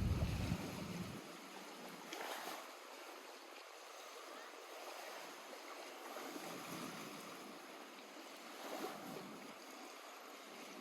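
Small lake waves lapping at the shore, a soft steady wash that swells now and then. A low rumble underneath dies away about a second in.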